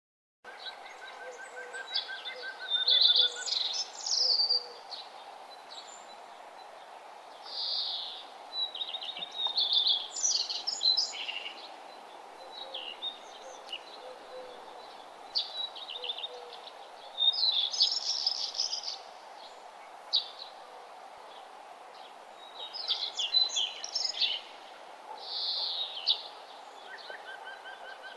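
Several wild birds singing in morning song: short bright song phrases every few seconds, with a quick run of evenly spaced notes near the start and again near the end. A faint low repeated note sounds underneath, over a steady background hiss.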